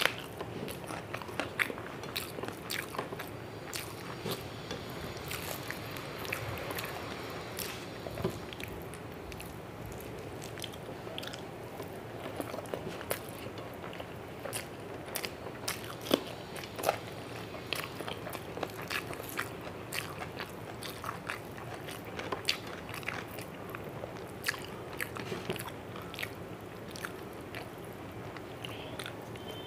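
Close-miked wet chewing and mouth clicks of a person eating rice and curry by hand, with irregular sharp clicks and smacks. Fingers squish and mix the rice on the plate between mouthfuls.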